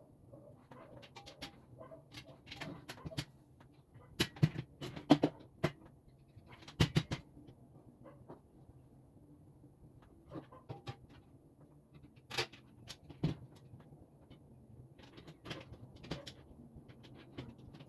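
Irregular knocks and clicks of work-table parts being handled and fitted during assembly, loudest in a cluster a few seconds in and again around seven seconds, over a low steady hum.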